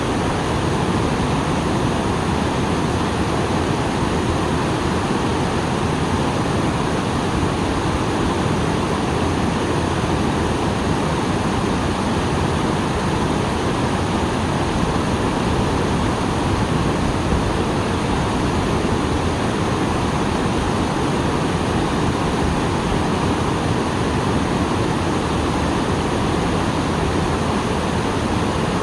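Small waterfall pouring steadily, its flow strong after rain: a dense, even rush of falling water.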